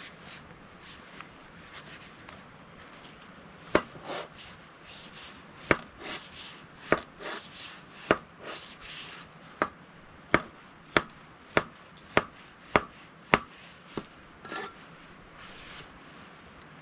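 Repeated chopping: sharp knocks with softer scraping between them. The knocks are irregular at first, then fall into a steady run of about three strokes every two seconds for a few seconds.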